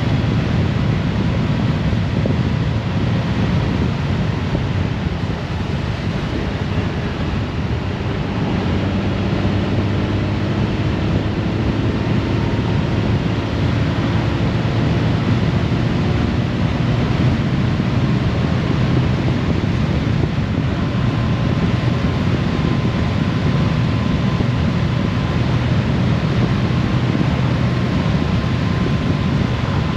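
Steady wind rush and road noise from a Honda Gold Wing DCT motorcycle riding at speed, with the hum of its flat-six engine showing faintly through for several seconds partway through.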